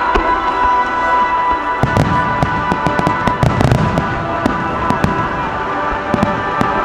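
Fireworks bursting overhead: several sharp bangs and crackles, with a denser cluster of deeper booms about halfway through, over music with long held tones.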